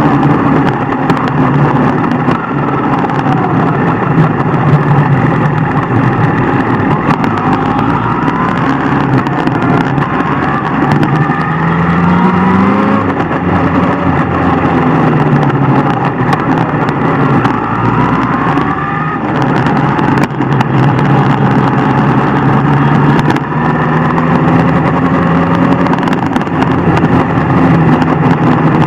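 Superbike engine running at speed, its pitch rising in several sweeps as it accelerates, over a steady rush of noise.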